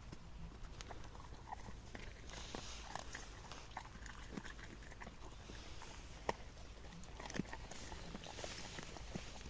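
Giant schnauzer chewing corn, a run of irregular small crunches and clicks.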